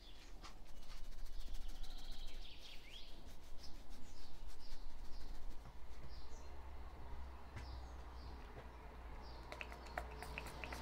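Small birds chirping outdoors over a steady low background hum, with a run of quick light taps and rustling through the first half.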